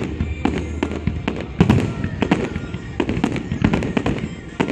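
Aerial firework shells bursting in quick succession: a dense, irregular run of sharp bangs, several a second, mixed with crackling.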